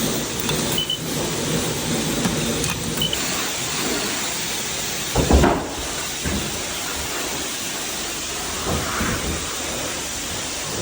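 Steady hiss of a car-wash spray wand, with one loud thump about five seconds in.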